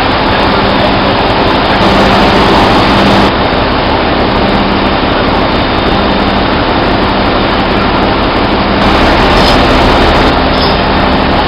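Loud, steady machinery noise, a constant din with a low steady hum underneath, typical of a ship's engine room with the main machinery running.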